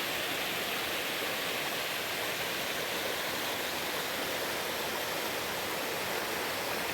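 Steady rushing of water, like a mountain stream or small cascade, an even wash of noise with no change or single events.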